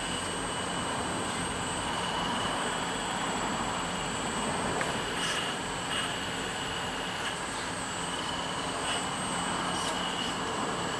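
Radio-controlled scale excavator running, its motor giving a steady high whine over a mechanical hum, with a few faint clicks.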